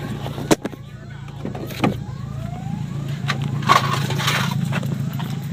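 1994 Ford Ranger's 2.3-litre four-cylinder engine idling with no muffler at all, a steady open-exhaust drone. Two sharp knocks cut in, about half a second in and again near two seconds.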